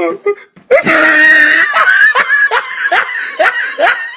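A person bursts into loud, shrieking laughter about a second in, then keeps laughing in quick short rising bursts, about three a second.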